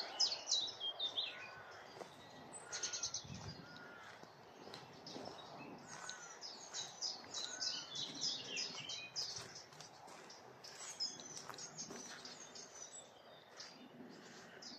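Several songbirds singing at once, a dense overlap of high chirps and quick trills.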